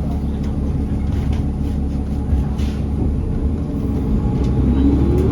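Steady engine and road rumble heard from inside a moving city bus, with a whine rising in pitch near the end.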